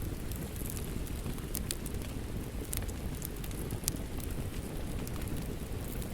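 Wood fire crackling with irregular sharp pops over a steady low rushing of rain.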